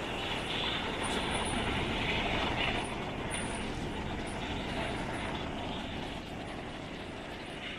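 A train running along the track: steady rolling noise, slightly louder for a couple of seconds about a second in.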